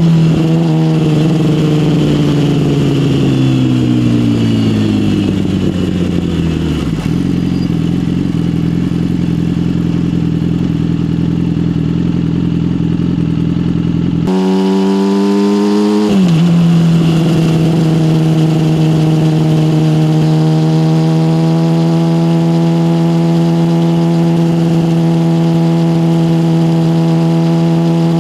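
Yamaha motorcycle engine through an aftermarket SC Project exhaust, its pitch falling as the bike slows over the first several seconds, then running steadily. About fourteen seconds in the sound changes abruptly, drops quickly a couple of seconds later, and settles into a steady drone to the end.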